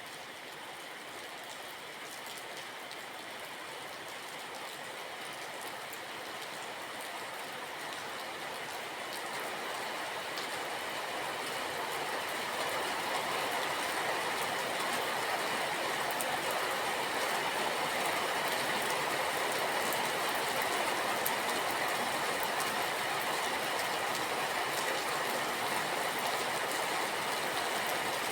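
Steady rain with scattered drop ticks, growing louder over the first dozen seconds and then holding steady.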